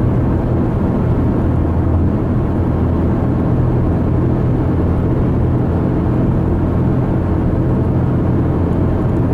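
Steady road noise inside a moving car's cabin: an even, low rumble of tyres and engine while cruising on a freeway.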